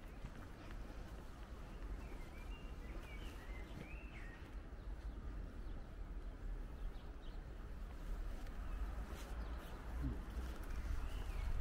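Outdoor ambience: a few short bird chirps, a cluster in the first few seconds and another near the end, over a steady low rumble.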